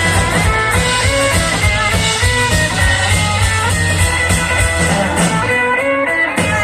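Live rock band playing an instrumental break with an electric guitar lead over bass and drums. The low end drops out briefly near the end.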